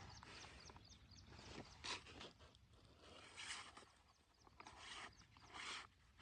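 Faint outdoor sounds: a few short rustling or scraping noises, with faint bird chirps in the first second or so.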